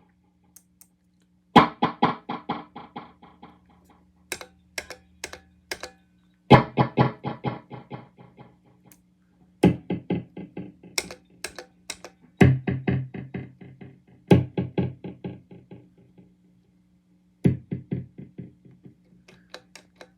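Electric guitar played through a Visual Sound True Tone Dual Tap Delay pedal: a handful of strummed chords, each trailed by a run of quick echoes that die away, with a few short muted strokes in between. A steady amplifier hum lies underneath.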